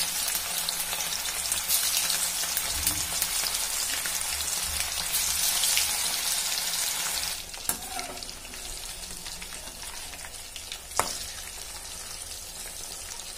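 Marinated boneless chicken pieces deep-frying in hot oil for chicken pakoda: a dense sizzle that drops suddenly to a quieter, steadier sizzle a little past halfway, with two sharp knocks in the later part.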